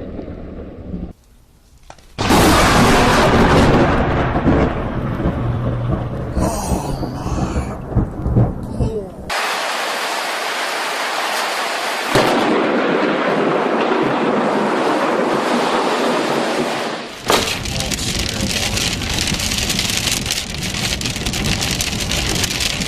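Thunderstorm: loud rumbling thunder and heavy rain. The sound changes abruptly several times, with a short quiet gap about a second in, a hissing stretch of rain in the middle, and deep rumbling again near the end.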